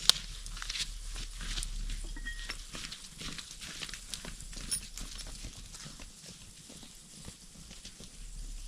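Wood campfire crackling with a steady run of small pops and snaps, and a sharp pop right at the start.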